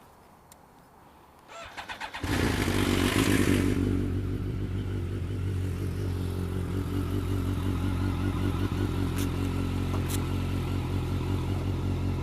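2008 BMW K1200S inline-four engine with an Akrapovic exhaust cranked on the starter, catching about two seconds in, flaring up briefly and then settling into a steady idle.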